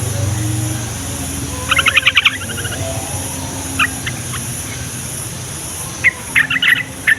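Yellow-vented bulbul (trucukan) calling. There is a quick chattering run of short notes about two seconds in, a short note near four seconds, and another chattering run near the end, over a steady low hum.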